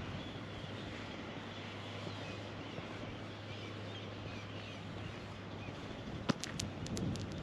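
Outdoor harbour-village ambience: a steady low hum under faint, scattered bird calls. A sharp click comes near the end, followed by a few lighter ticks.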